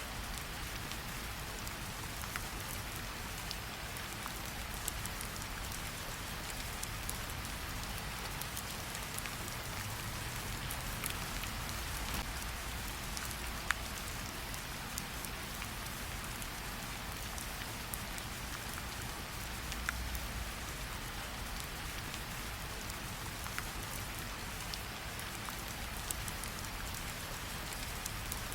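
Steady rain hissing, mixed with a campfire crackling: scattered sharp pops and clicks over the rain, the loudest a single crack about fourteen seconds in.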